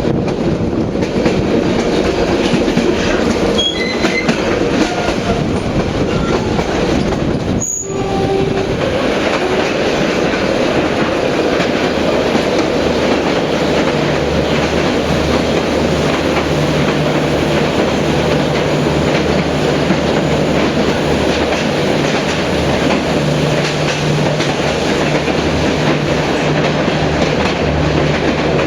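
Passenger train on Vietnam's North–South railway running along the track: a steady rumble and rattle of wheels on rails, briefly easing about a third of the way through, with a low steady drone joining about halfway.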